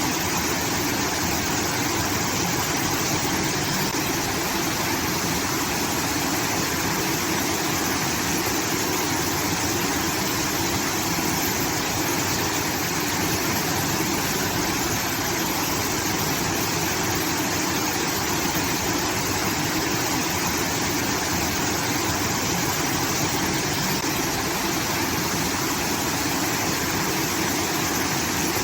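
Water rushing steadily out of a rice-field irrigation channel, an unbroken waterfall-like pour.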